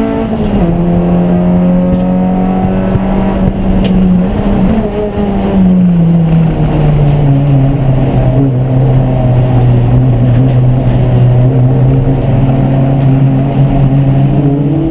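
Race car engine running at steady, fairly low revs. Its pitch drops in two steps, holds one steady low note for several seconds, then rises slightly near the end.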